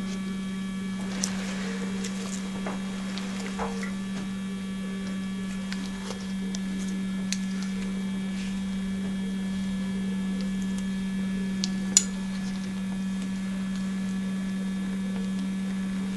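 Steady electrical hum, with a few faint ticks and one sharper click about twelve seconds in.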